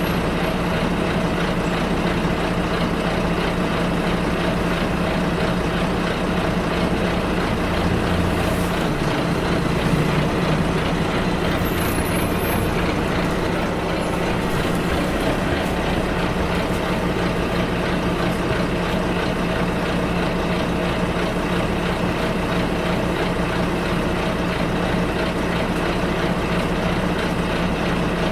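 Bus engine and road noise heard from inside the bus: a steady drone with a constant engine hum, briefly swelling a little about ten seconds in.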